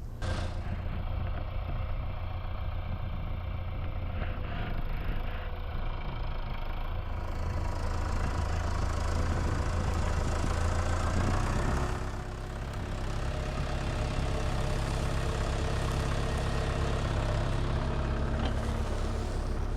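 Tractor engine running steadily, its note shifting about twelve seconds in.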